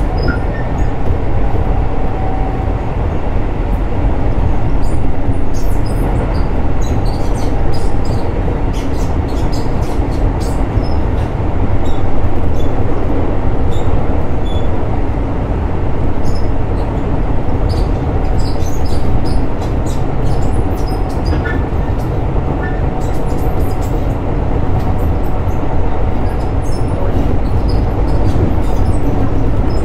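Keisei 3600-series electric commuter train running, heard from on board: a steady rumble of wheels on rail, with scattered small clicks and ticks and a faint steady tone over it.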